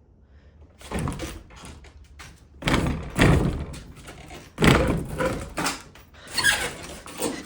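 A wooden door being rammed or kicked to break it down: four heavy thuds about two seconds apart, with smaller knocks and rattles between.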